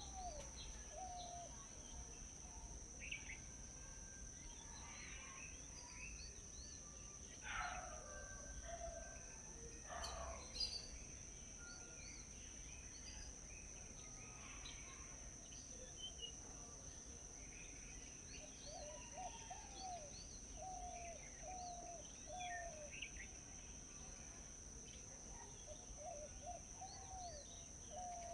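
Several wild birds calling and chirping, with a repeated series of short lower notes in the second half, over a continuous high-pitched insect drone.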